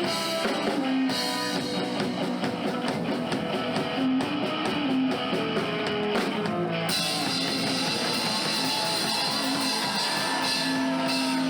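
Live rock band playing electric guitar over a drum kit. About seven seconds in the steady drum beat stops and a sustained wash of sound with held notes takes over, as at the close of a song.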